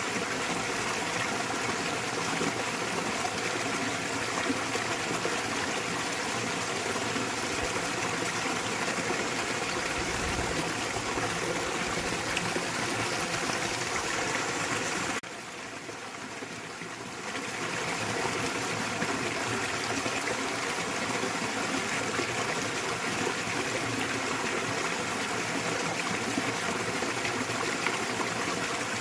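Small waterfall in a mountain stream: water splashing and rushing steadily. It drops noticeably quieter for about two seconds a little past halfway, then returns to the same level.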